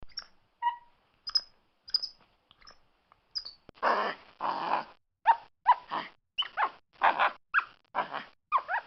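A monkey calling: a few short high squeaks, then from about four seconds in a quick run of harsh barking calls, some opening with a squeal.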